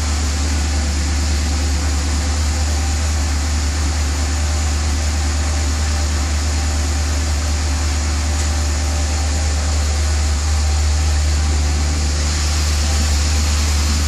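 Maserati coupe's V8 idling through its stock exhaust: a steady, low drone.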